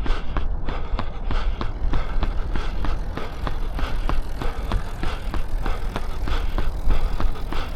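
A runner's footsteps, evenly paced at about three strides a second, over a steady low rumble.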